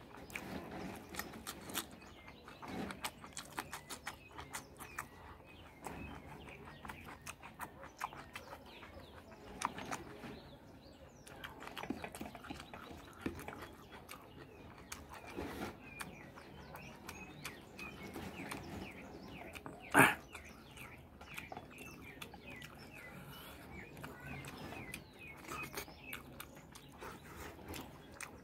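Close-miked eating sounds from a person eating rice, beef stew and cucumber by hand: repeated wet chewing, lip smacks and crisp crunching clicks. One much louder sharp click comes about twenty seconds in.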